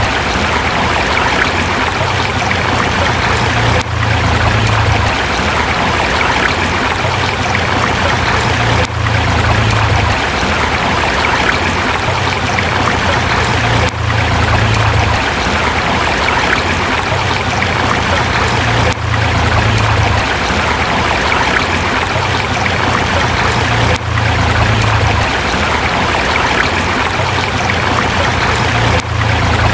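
River water flowing over rocks in a steady, dense rush, with a brief dip in level about every five seconds.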